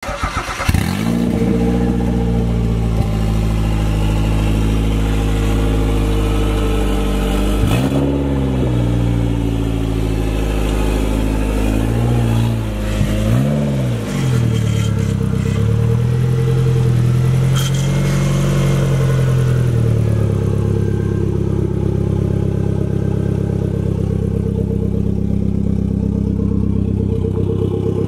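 Mazda Miata's swapped-in Mazdaspeed turbocharged 1.8-litre four-cylinder engine running at idle, with a few short revs around the middle before it settles back to a steady idle.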